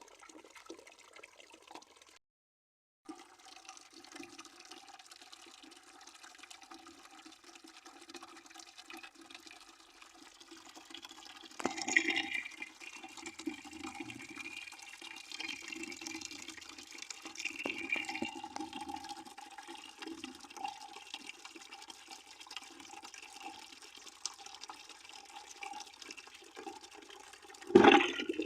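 Water running steadily into a bucket, splashing with a hollow ringing tone from the filling bucket. The sound cuts out completely for under a second about two seconds in, then carries on, with louder splashy surges about twelve seconds in and again at the very end.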